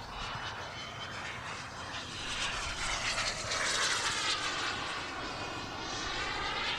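Turbine-powered radio-controlled model A-4 Skyhawk jet making a high-speed pass: a steady jet whoosh that swells to its loudest about four seconds in, then eases off.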